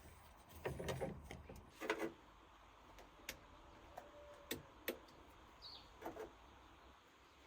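Faint, irregular clicks and knocks, a dozen or so scattered taps of hard objects over a quiet background.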